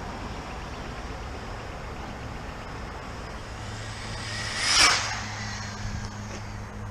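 Electric RC car speeding past close by: its motor whine and tyre noise build up, peak sharply about five seconds in, then fall away fast, the whine dropping in pitch as it passes.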